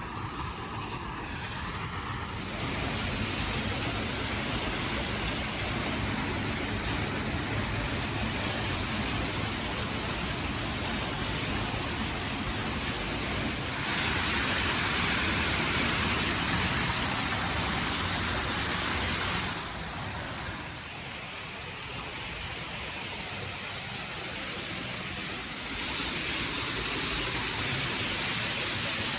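Waterfall water rushing steadily, a constant roar of falling water whose loudness and brightness step up and down abruptly a few times.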